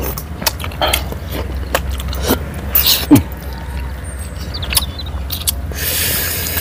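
Close-miked chewing and lip-smacking of people eating saucy chicken by hand: a scatter of short wet clicks, with a short falling hum about three seconds in.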